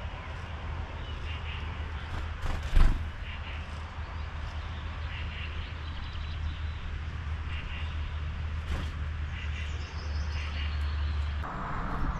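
Small birds giving short repeated chirps over a steady low hum that cuts off near the end. A single sharp knock sounds about three seconds in.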